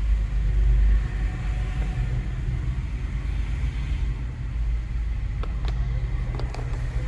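Steady low engine rumble with a constant hum, and a few light clicks about six seconds in.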